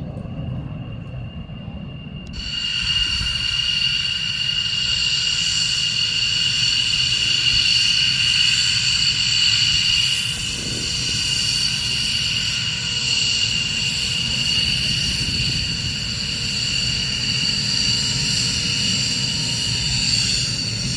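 Jet aircraft engines running, with a low rumble and a high, steady multi-tone whine that comes in suddenly a couple of seconds in and stays.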